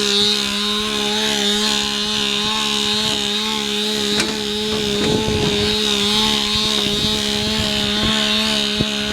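A steady machine drone, a constant pitched hum with overtones, with some knocks and rattles about four to five seconds in and a sharp click near the end.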